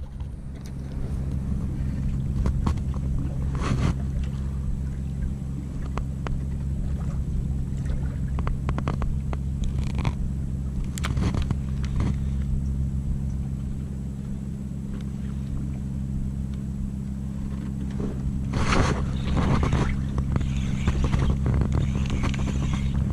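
A boat engine running steadily, with a low, even hum. Scattered knocks and clatter sound over it, and a louder, noisier stretch comes about nineteen seconds in.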